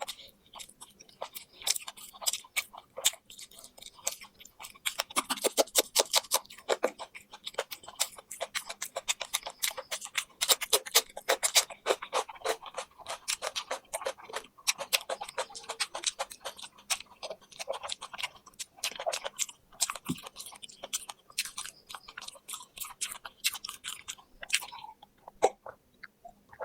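Close-miked chewing of crispy fried poultry: a long run of crunches and crackles in quick succession.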